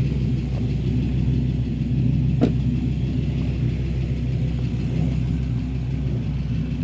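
Dodge Ram SRT-10's V10 engine idling steadily through an aftermarket exhaust, with a single short click about two and a half seconds in.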